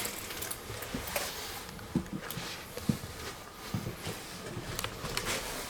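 Scattered light clicks and knocks at uneven intervals as a REM pod ghost-hunting sensor is handled and set down on a landing floor.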